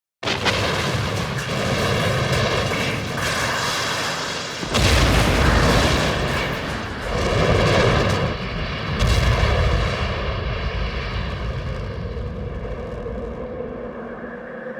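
Sound-effect explosions: a sequence of heavy booms over continuous deep rumble. It starts suddenly, with the biggest blasts about five, seven and a half and nine seconds in, then rumbles and slowly dies away.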